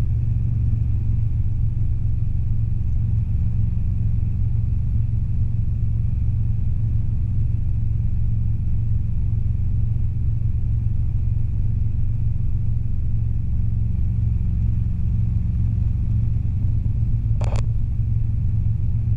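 Robinson R22 helicopter in cruise flight, heard from the cabin: a steady low drone of the engine and rotors, with a faint steady high tone above it. One brief click comes about 17 seconds in.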